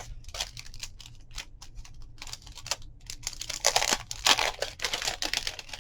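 Paper rustling and crinkling with many light clicks and taps as small paper number pieces are sorted and handled, with a denser burst of rustling a little past halfway.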